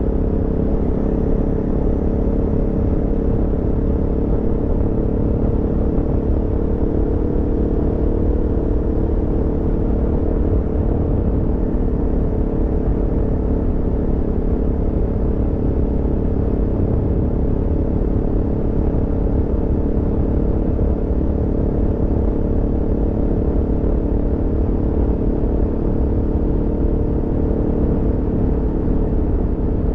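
Aprilia Tuono V4 motorcycle's V4 engine running at steady revs while riding, with no rise or fall in pitch.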